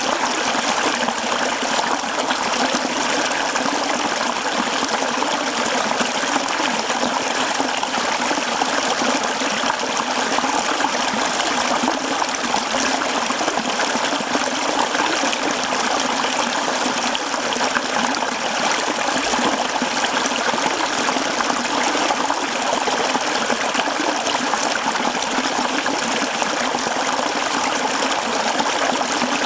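Mountain stream flowing over rocks: a steady rush and babble of running water.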